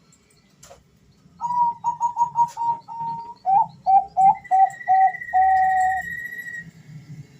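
Male zebra dove (perkutut, Bangkok song strain) cooing: a quick run of short repeated notes that starts about a second and a half in, drops a step lower, and ends on a longer held note.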